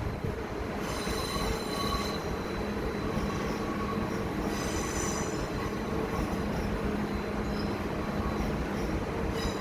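Regional train running along the track with a steady rumble, its wheels briefly squealing high against the rails twice, about a second in and again around the middle.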